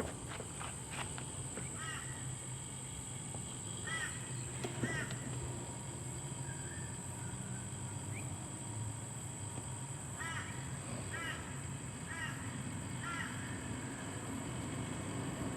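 Refrigeration vacuum pump running steadily with a low hum while it evacuates the car's air-conditioning system to boil off moisture. A bird calls over it in two bouts of short repeated calls, a few seconds in and again about ten seconds in, against a steady high whine.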